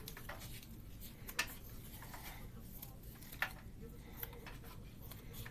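Utility scissors cutting paper and cardboard into small pieces for worm bedding, heard as a few separate sharp snips.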